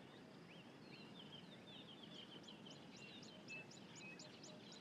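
Faint bird calls: a steady series of short, high chirps repeated about two or three times a second, with softer twittering underneath.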